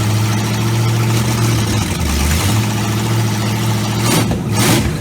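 Freshly rebuilt small-block Chevy V8 running in a dirt car on its first start-up, idling steadily, dipping briefly about two seconds in, with two short louder bursts near the end before it cuts off.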